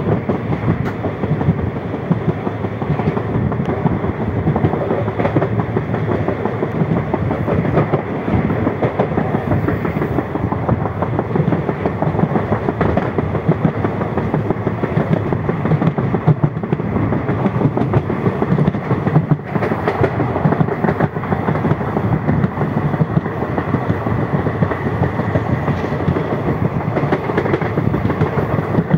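Passenger train coach running along the track, heard at an open barred window: a steady, loud rush of wheel-on-rail noise with rattling.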